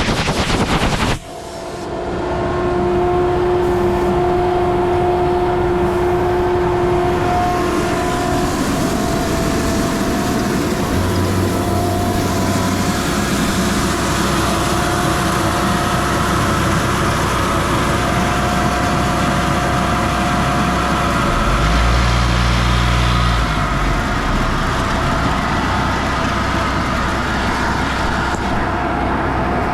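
Stone slinger truck at work: its engine and high-speed conveyor running steadily with a steady whine over a continuous mechanical rush. The sound dips briefly about a second in, and a low rumble swells for a second or two about two-thirds through.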